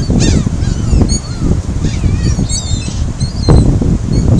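A flock of seagulls calling, many short overlapping cries, over heavy wind rumble on the microphone.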